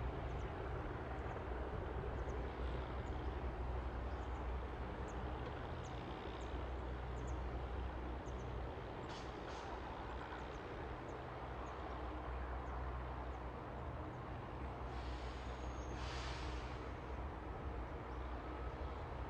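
A train runs with a steady low rumble, faint short high chirps scattered above it, and a brief hiss about fifteen seconds in.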